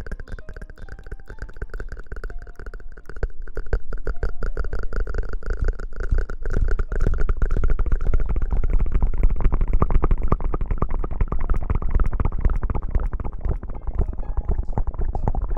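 Dense crackling and rubbing right against the microphone, an ASMR rustling or scrubbing trigger, with a heavy low rumble. It grows louder about three seconds in.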